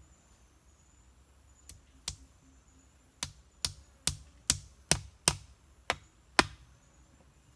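About ten sharp chopping strikes, most in a quick run of about two a second: a blade hacking into wood.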